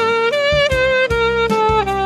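Saxophone playing a slow melody of held notes with vibrato, stepping from note to note, over a backing track with bass and a steady drum beat.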